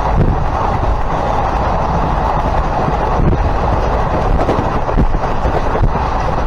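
Passenger train running on the rails, heard from on board: a steady rumble of the coach and wheels on track.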